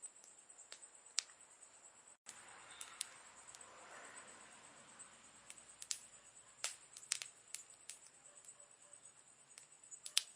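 Campfire burning, wood crackling with scattered sharp pops over a soft hiss. The sound cuts out briefly about two seconds in.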